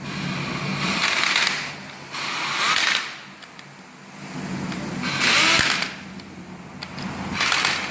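Power tool run in four short bursts, each under a second, over a steady low hum.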